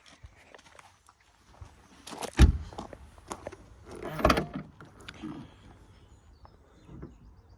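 Handling noises: a heavy thump about two and a half seconds in and another about four seconds in, with clicks and rustles between them.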